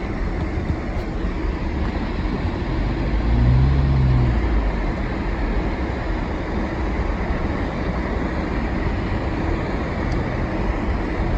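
Vehicle driving on a snow-covered road, heard from inside the cab: steady engine hum and tyre and road noise. About three and a half seconds in, a low engine tone briefly rises and falls in pitch and gets louder.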